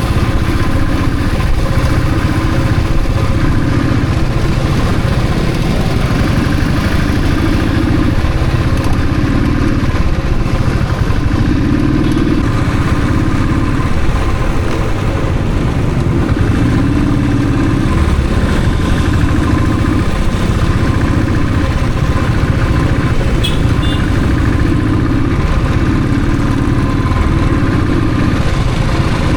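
Royal Enfield Thunderbird's single-cylinder engine running steadily under way on a ride, its low beat swelling and easing every second or two.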